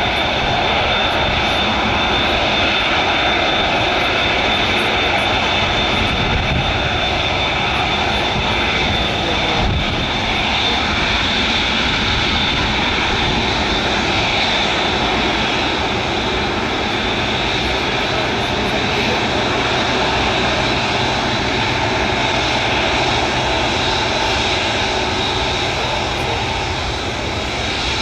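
Airbus A380's four jet engines running at taxi power: a steady, loud rush of engine noise with a constant high whine over it.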